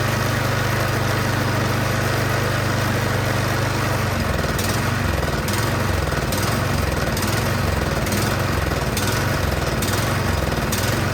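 Troy-Bilt snowblower's small engine running steadily on choke, then from about four seconds in surging, its speed rising and falling about every second once the choke is off. The surging points to a carburetor fault, which the mechanic guesses is a rich mixture from a dirty carburetor.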